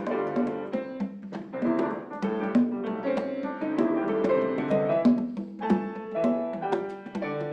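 Piano playing a lively passage of quick, overlapping chords and notes.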